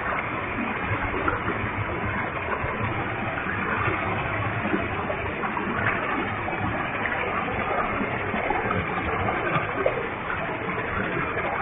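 Waterfall with a heavy flow of water falling, a steady rushing noise.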